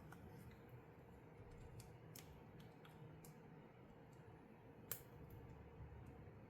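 Faint, scattered clicks of plastic LEGO pieces being handled and pressed together, with one sharper click about five seconds in.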